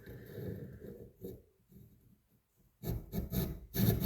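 Hand saw cutting through the protruding end of a hickory hatchet handle, trimming it just above the head, in back-and-forth strokes. A few light strokes, a short pause, then steady, louder sawing from about three seconds in.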